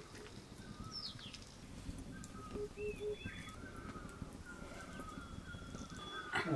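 Birds calling outdoors: many short, repeated whistled notes, a few higher chirps, and three short low notes about two and a half seconds in, over a low background rumble. A sharp knock comes right at the end.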